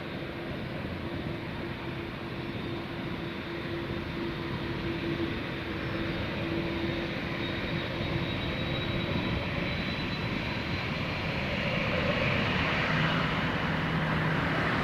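Airbus A350-900's Rolls-Royce Trent XWB jet engines running on departure, a steady engine noise with a held hum that grows louder toward the end.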